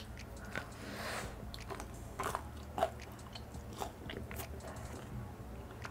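A person biting into a piece of Korean fried chicken and chewing it close to the microphone, with irregular sharp crunches, the loudest about two to three seconds in.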